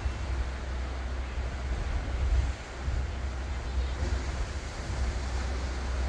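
Ocean waves washing onto the shore in a steady surf, with a low rumble of wind on the microphone.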